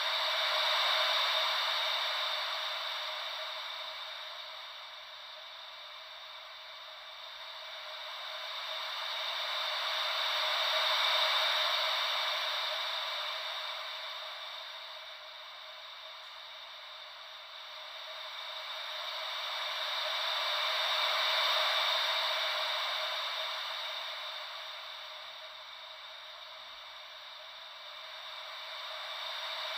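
Ocean-wave white noise: a steady hiss with no deep rumble that swells and fades slowly, about once every ten seconds, like gentle waves washing in and out.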